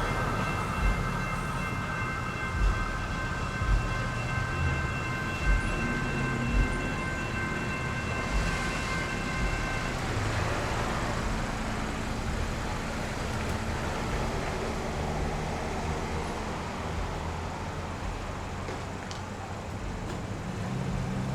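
General Signals Type 2 electronic crossing bells ring in a steady high tone while a CAF light rail train rolls through the crossing, its wheels thumping about once a second. The bells cut off suddenly about ten seconds in, the sign that the crossing has cleared. Steady road traffic noise is left after that.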